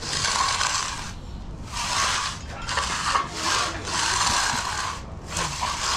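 Concrete broom dragged across fresh concrete in repeated strokes, about six in a row, each a scratchy hiss lasting half a second to a second: the broom finish being put on the slab.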